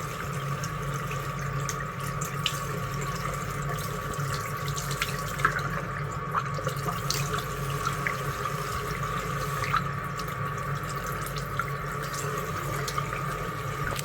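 Water running steadily, as from a tap, over a steady low hum, with scattered small ticks and clicks.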